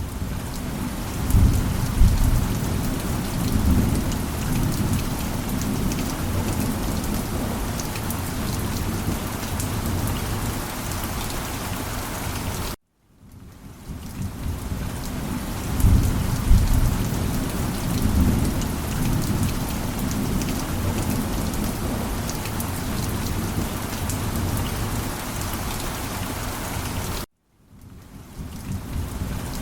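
Steady heavy rain with low thunder rumbling, which swells about two seconds in and again about sixteen seconds in. The sound cuts out suddenly near the middle and near the end and fades back in each time, the same short stretch of rain and thunder repeating.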